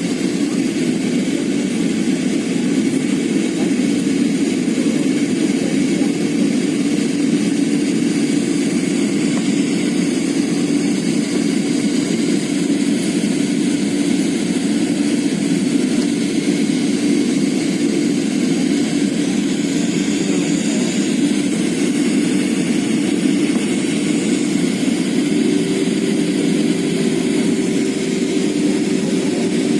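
Aeroplane engine drone and airflow inside the cabin: a steady loud rush with a steady hum that steps up to a slightly higher pitch about 25 seconds in.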